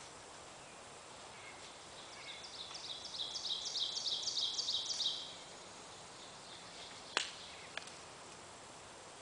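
A bird singing a run of about a dozen high, quick, falling notes repeated several times a second, swelling in loudness over about three seconds before stopping; two sharp clicks follow near the end.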